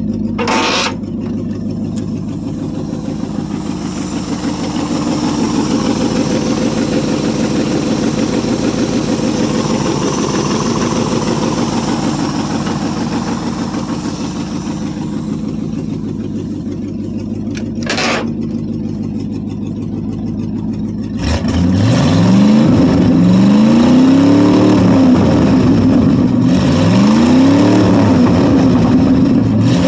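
International 345 V8 in a 1973 International 1210 pickup running steadily, then, about two-thirds of the way through, revved up and down several times, each rev rising and falling in pitch. Two short sharp clicks sound over the engine, one about a second in and one later.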